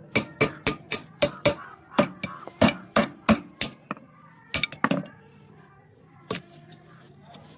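Hammer blows on metal, sharp clinking knocks about three a second for the first four seconds, then a quick cluster of three and one last single knock.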